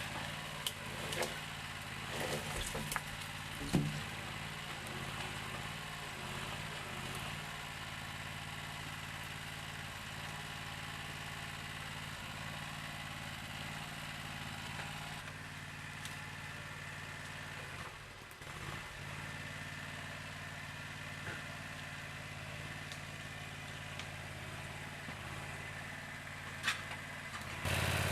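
An engine idling steadily, with a few sharp knocks in the first few seconds.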